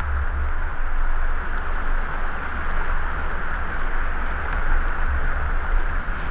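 Steady rush of a waterfall and its river, with a low rumble underneath.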